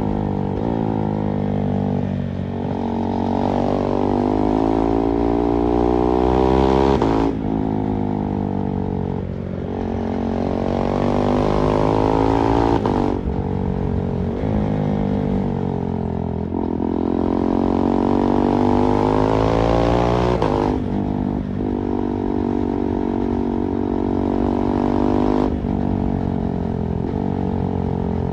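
2024 KTM 390 Duke's single-cylinder engine under way, heard from the rider's back: the revs climb steadily, then break off at a gear change, about four times.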